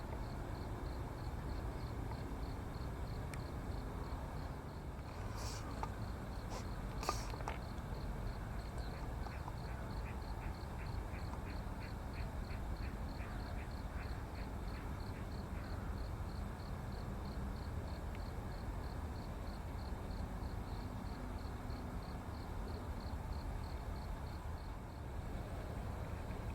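Wild birds calling over a steady low background noise. A high, thin note repeats about three times a second throughout, and midway a bird gives a run of lower repeated notes for several seconds. There are two sharp clicks early on.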